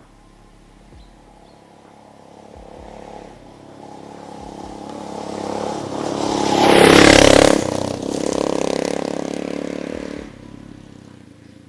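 Enduro motorcycle engine passing by: it grows louder over several seconds, is loudest about seven seconds in, then fades away.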